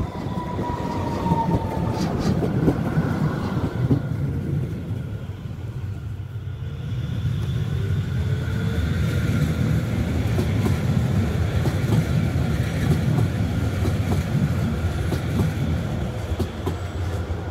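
Frankfurt U-Bahn light-rail trains running on the depot tracks: a rumble of wheels on rail with a tone falling in pitch as the first train moves off. After a quieter spell, a second train approaches and passes close by, with a rising motor whine from about eight seconds in.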